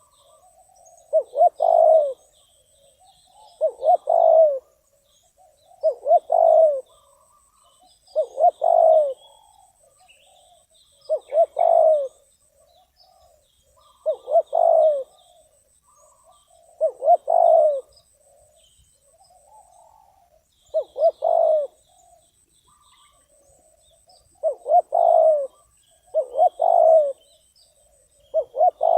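Spotted dove cooing its song over and over: about a dozen phrases, each a few quick notes ending in a longer coo, one every two to three seconds. Faint small-bird chirps sound higher up.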